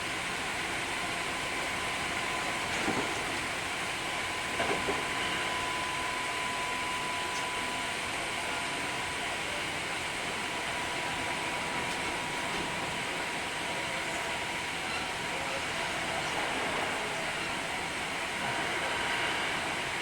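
Hankyu 3300 series electric train running at steady speed: a steady rumble with a steady whine over it. Two brief knocks come about 3 and 5 seconds in.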